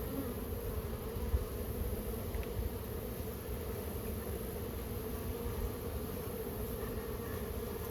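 A mass of honey bees buzzing steadily in a dense, unbroken hum, with a low rumble underneath and one light knock about a second and a half in.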